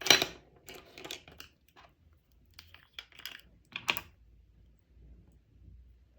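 Makeup containers and tools being handled, making small plastic clicks, taps and rustles. There is a sharp click at the start, an irregular string of lighter taps, and another sharp click just before four seconds in.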